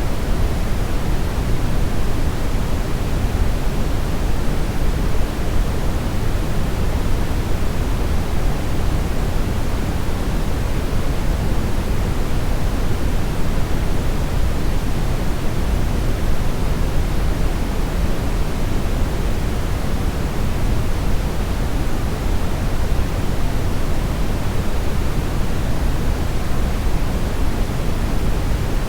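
Steady synthetic brownish noise: an unbroken, even hiss-rumble weighted toward the low end, without tones, rhythm or events.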